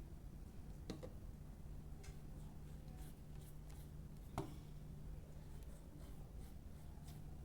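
Light handling clicks and taps on a hair dryer's parts while it is being oiled, the two sharpest about a second in and just past four seconds, over a faint steady low hum.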